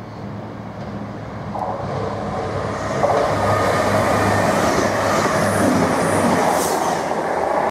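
Express passenger train running through a station at speed without stopping. It grows louder over the first three seconds as it approaches, then gives a steady rush of wheels on rail and air as the carriages pass close by.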